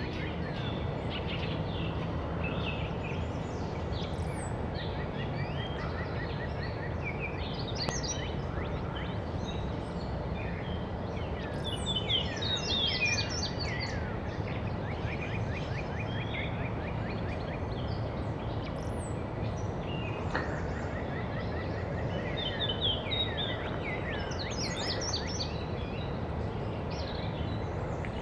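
Several wild birds singing and calling at once, overlapping chirps, whistles and trills, over a steady low background rumble.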